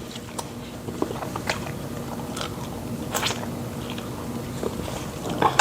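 Close-up chewing and mouth sounds of people eating fufu and pepper soup, with scattered small smacks and clicks.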